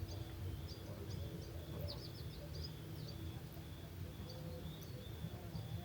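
Summer evening outdoor ambience: a cricket chirping in a steady rhythm of about two pulses a second, with a small bird giving short, high, quick chirps in bursts, over a low steady rumble.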